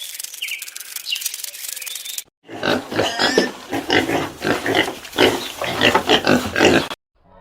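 About two seconds of scratchy, rasping noise with fine rapid ticks, then, after a short break, an animal grunting in a run of short calls, several a second, for about four seconds.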